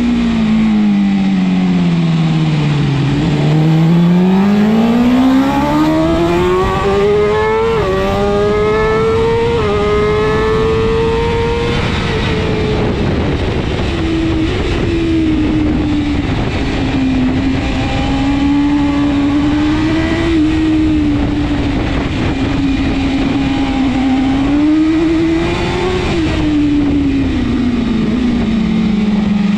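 A BMW S1000RR superbike's inline-four engine at racing speed, heard on board. The revs drop steadily for the first few seconds, then climb hard, with a brief dip about eight seconds in. After that they hold high and rise and fall gently, over a constant rush of noise.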